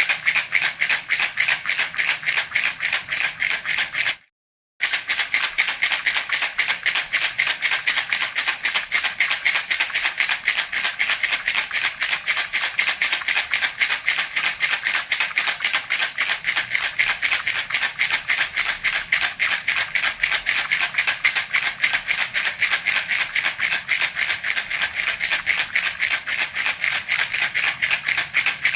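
Baby rattle (jhunjhuna) shaken rapidly and steadily, an even rattling rhythm of many strokes a second, with a brief break of about half a second about four seconds in.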